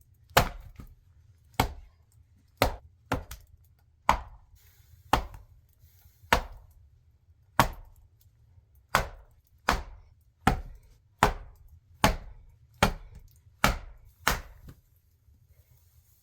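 Axe chopping a log: about sixteen sharp strikes, roughly one a second, that stop a little before the end.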